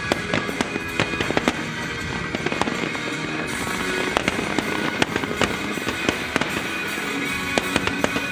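Fireworks display: aerial shells bursting in quick, irregular succession, several sharp bangs a second with crackling, over music playing throughout.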